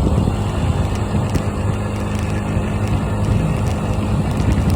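Honda Ruckus scooter's small single-cylinder engine running steadily while riding, with wind buffeting the microphone.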